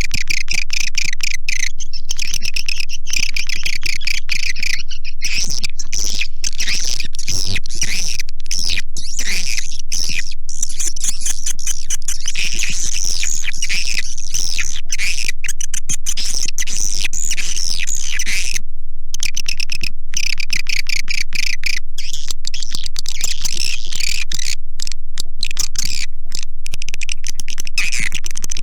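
Recorded swiftlet calls, a lure sound for swiftlet houses: a dense, continuous chorus of rapid chattering twitters and clicking trills, high-pitched and steady in loudness, with a brief break about two-thirds through.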